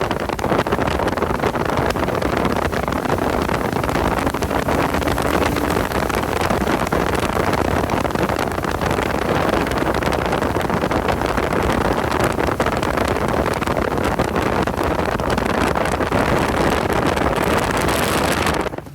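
A car running at speed on a race track: steady engine, road and wind noise.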